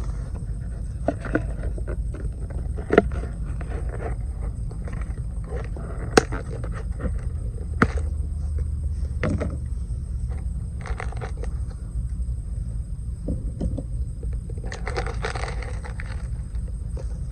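Wood campfire crackling, with a few sharp pops, over a steady low rumble. There is a longer scraping rustle near the end.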